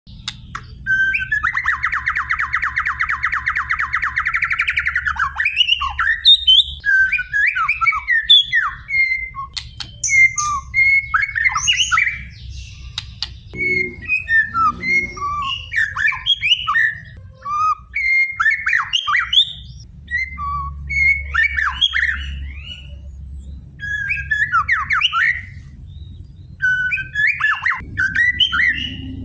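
White-rumped shama (murai batu) singing: a fast, rattling trill for the first few seconds, then a string of varied whistled phrases with rising and falling notes broken by short pauses. A faint steady low hum runs underneath.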